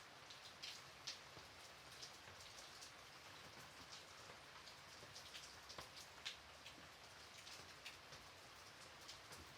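Gentle rain: a soft steady patter with many separate drops ticking irregularly.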